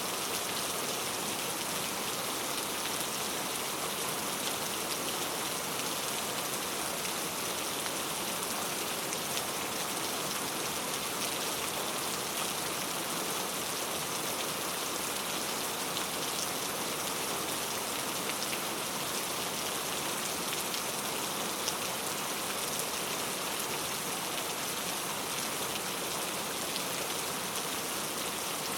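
Steady rainfall with fine drops pattering, an even hiss without pauses or thunder.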